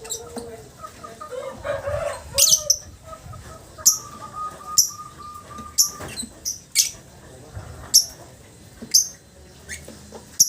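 Lovebird chirping: short, sharp, high chirps repeating about once a second. A thin steady tone holds for about two seconds midway.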